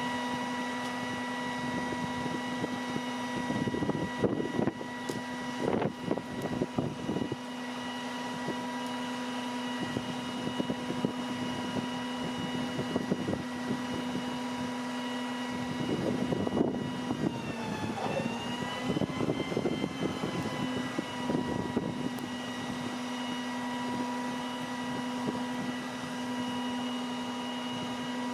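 Peterbilt garbage truck with a crane running, its engine and hydraulics giving a steady pitched whine; past the middle the pitch dips briefly and recovers, as under a change of load. Irregular clanking and rattling come in bursts about a sixth of the way in and again past the middle.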